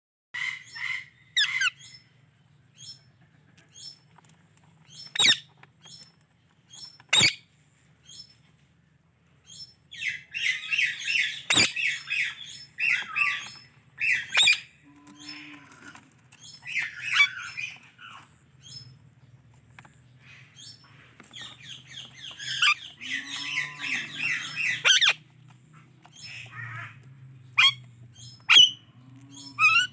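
Indian ringneck parakeet chirping and chattering, with sharp single squawks in between. There are two longer bouts of rapid chatter, one about ten seconds in and one past the twenty-second mark.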